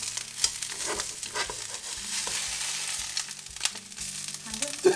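Laverbread cakes and a fried egg sizzling and crackling in bacon fat in a frying pan, with scrapes and taps of a metal slotted spatula as the cakes are lifted out.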